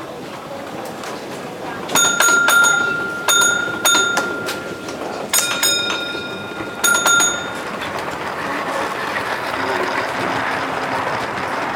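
Signal-box block bells ringing bell codes between boxes on a model railway layout: several short groups of sharp, ringing strokes from two bells of different pitch. From about two-thirds of the way through, a steady rushing sound of a model train running takes over.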